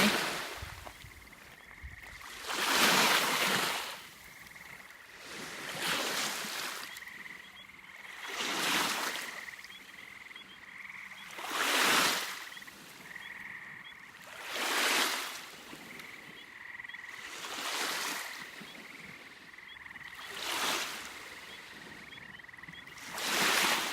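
Small waves breaking on the shore about every three seconds, each wash rising and falling away, with a faint steady high-pitched tone running underneath.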